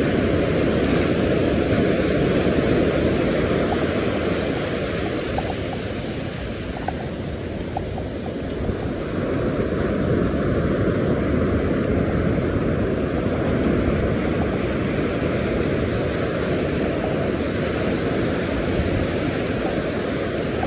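Steady, loud rushing noise of wind and surf on an open beach, with most of its weight in the low range and a slight lull in the middle.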